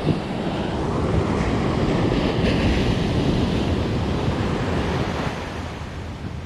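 Ocean surf breaking and washing up the beach, swelling to a peak a couple of seconds in and easing off, with wind buffeting the microphone.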